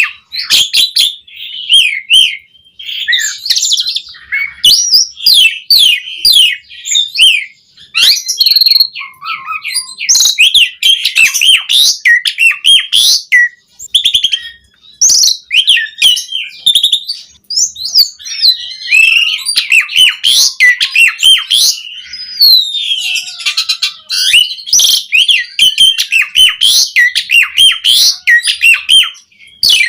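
Asian pied starling (jalak suren) singing continuously in full song: a fast, varied jumble of whistles, chirps and harsh notes in long runs with brief pauses.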